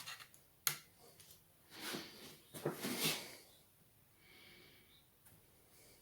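Laptop parts being handled during motherboard removal: a sharp click about two-thirds of a second in, then two longer scraping rustles around two and three seconds in.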